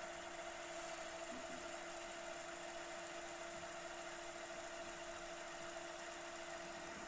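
Panasonic NV-SD300 VHS video recorder running: a steady hum with a constant tone over an even hiss.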